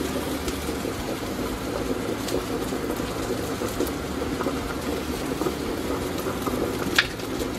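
Rice and diced vegetables sizzling steadily in oil in an aluminium pot being sautéed, with one sharp click about seven seconds in.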